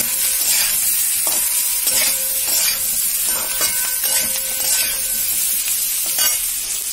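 Spiny gourd, potato and onion sizzling in hot oil in a kadai while a metal spatula stirs them, scraping against the pan a few times.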